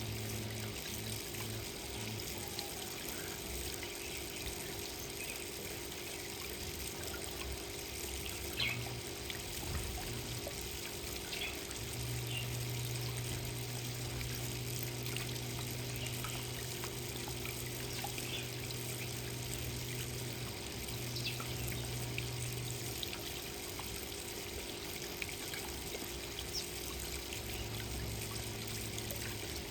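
Steady trickling water, with a few faint, brief high sounds scattered through it. A low hum comes and goes, strongest through the middle.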